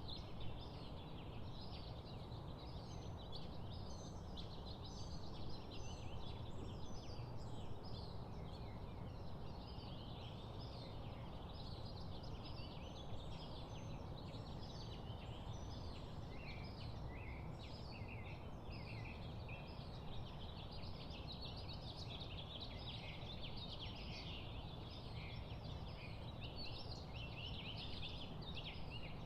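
A dense chorus of many birds chirping and calling over one another, over a steady rushing background.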